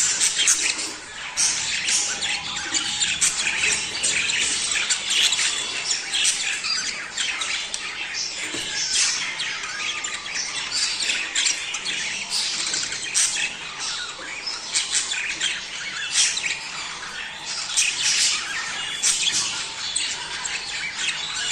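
A flock of budgerigars chattering, dense overlapping short chirps and squawks without a break.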